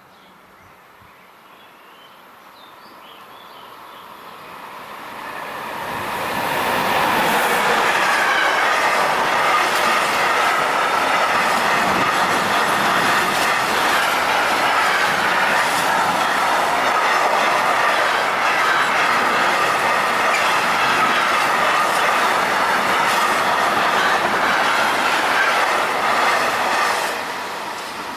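Freight train passing close by: its rumble swells over the first several seconds, then holds as a long steady run of wheel-on-rail noise with repeated clicks and a steady high tone over it, and drops off near the end.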